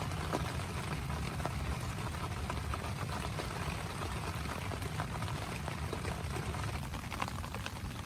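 Heavy rain on a small tent: a steady patter with many separate drops ticking on the fabric.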